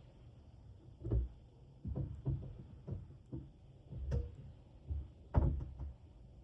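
A series of about eight dull knocks and thumps over five seconds, the loudest about a second in and near the end.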